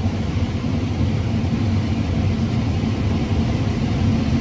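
Combine harvester running steadily while cutting corn: an even, low machine drone from the engine and threshing rotor.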